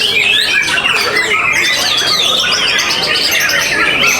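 Many songbirds singing at once in a dense, unbroken chorus of overlapping whistles, rising and falling glides and fast chattering notes.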